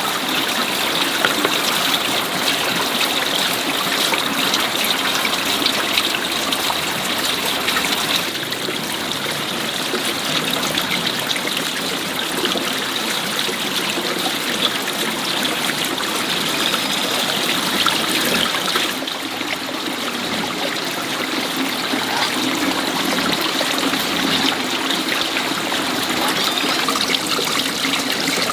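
Stream water flowing steadily: an even rushing and trickling that eases a little twice.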